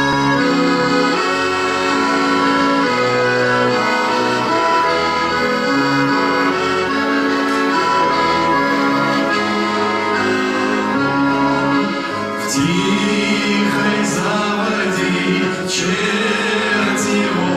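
Accordion playing an instrumental introduction: a melody over held chords. About twelve seconds in, a second wavering melodic line joins, with sharp taps.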